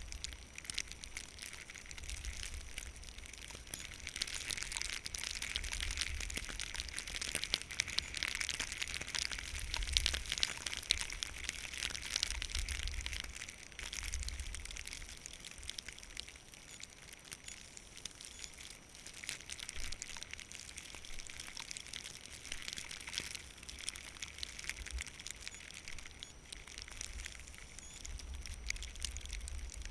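Skis sliding and scraping over snow, a steady crackling hiss that swells for several seconds early in the run, with gusts of wind buffeting the microphone in low rumbles.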